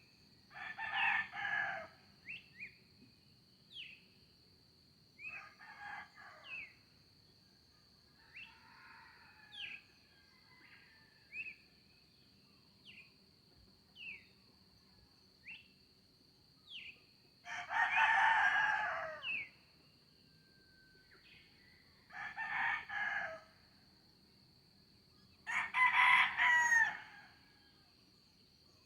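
Roosters crowing, five crows with the longest and loudest about two-thirds of the way through, over a steady high insect drone. A small bird gives short falling chirps every second or two between the crows.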